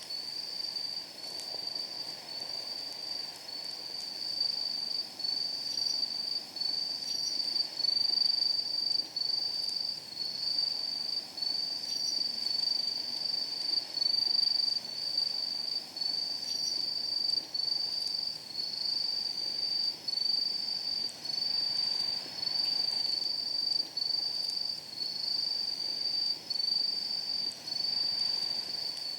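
An insect singing a high-pitched trill, in regular phrases about a second long with short breaks, over a faint low hiss and a few faint crackles from a wood fire.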